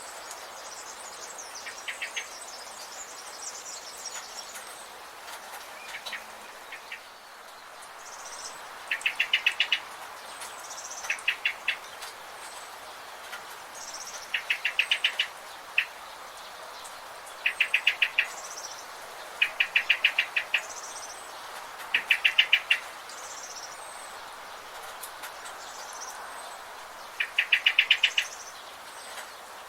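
Wild birds calling: one bird repeats a fast trill of short, even notes every couple of seconds, while thin high chirps from other birds sound between them over a steady background hiss.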